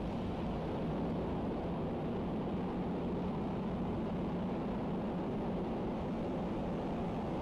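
Falcon 9 rocket's first stage, its nine Merlin 1D engines firing during ascent, a steady low rumbling noise that holds even throughout. Stage 1 propulsion is running nominally.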